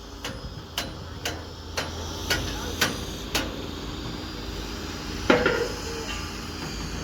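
Seven sharp, evenly spaced knocks, about two a second, then a single louder clank with a brief ringing tone a little after five seconds in.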